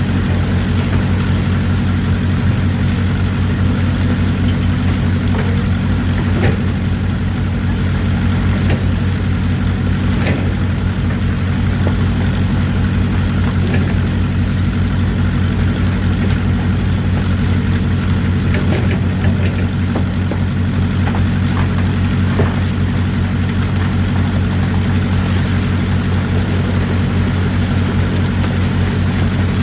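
Excavator diesel engines running steadily, with a few sharp metallic clanks, over a constant hiss of running water.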